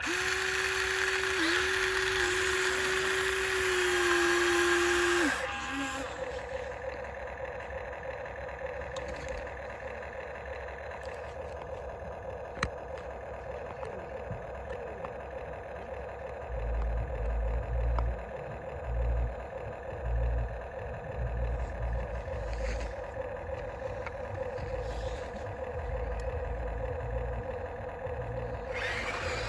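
Small electric motors of a radio-controlled toy excavator whining, loud for the first five seconds or so, then a quieter, steady whine. Low thumps and rumbles come in the second half.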